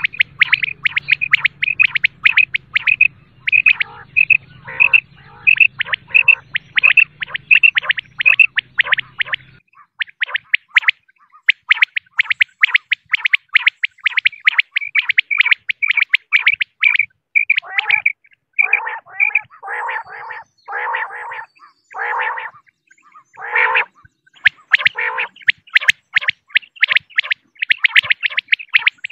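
Female common quail calling: a rapid run of short, high notes, several a second, with a low hum under the first third. About two-thirds of the way through come a handful of harsher, fuller calls about a second apart, then the rapid notes resume.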